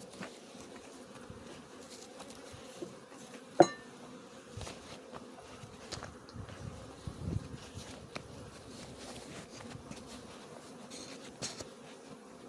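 Honeybees buzzing around an opened hive, a steady hum, with one sharp knock about three and a half seconds in and a few lighter taps.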